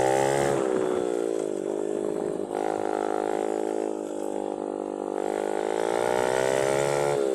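110 cc mini dirt bike's single-cylinder four-stroke engine running under way, its note dropping and rising several times as the throttle is eased and opened again.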